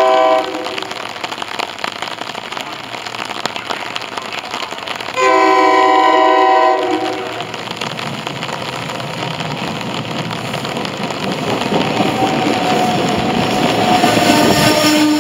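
SEPTA electric commuter train sounding its multi-tone horn: a short blast at the start and a longer blast of about a second and a half about five seconds in. The train's rumble and wheel noise then build as it approaches and runs past, loudest in the last few seconds.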